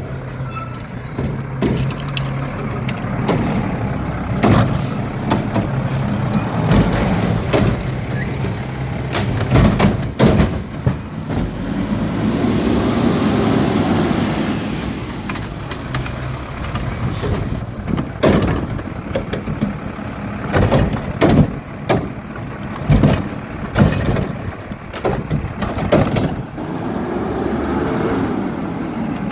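Garbage truck collecting recycling: its diesel engine runs steadily and swells for a couple of seconds about midway, with many sharp bangs and clatters, and short air-brake hisses near the start and about halfway through.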